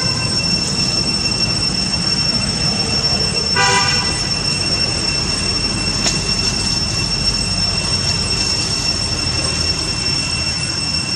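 Steady, high-pitched insect drone over a rumbling background. About three and a half seconds in, a short pitched animal call briefly rises above it.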